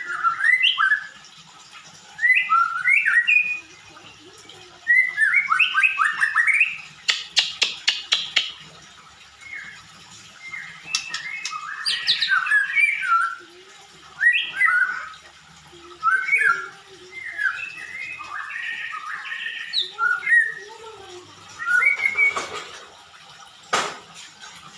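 A songbird singing in short, varied phrases of quick gliding notes, with a new phrase every second or two and a fast run of sharp clicking notes about seven seconds in.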